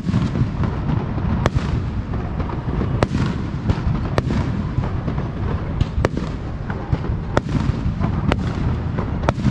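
Aerial fireworks bursting in a continuous barrage: a steady low rumble of booms with about ten sharp cracks scattered through it.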